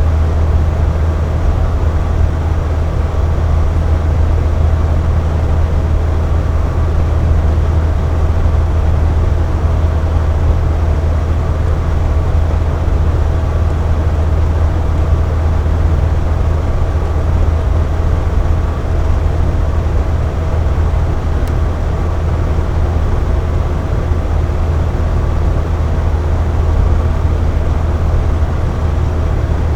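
Air conditioner running steadily: an even, deep hum with a fainter hiss of moving air and a couple of faint steady tones above it.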